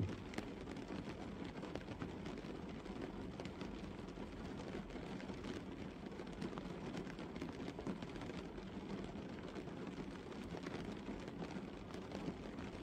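Steady gentle rain pattering on a car's bonnet and windscreen, heard from inside the car as a dense run of fine drop ticks, with one louder tap at the very start.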